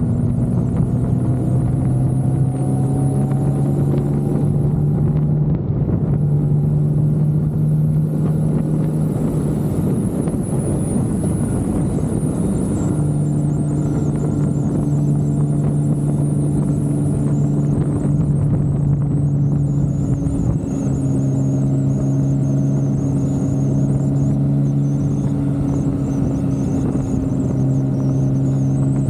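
BMW K1600B inline-six engine through a Remus aftermarket exhaust, running steadily under way. Its note holds a steady pitch and shifts a few times, about 5, 13 and 20 seconds in.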